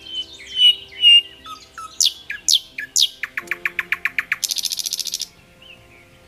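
A songbird singing over faint, steady background music. The song is a few whistled notes, then three loud downward-sweeping notes about two seconds in, a fast trill, and a buzzy rattle that stops about five seconds in.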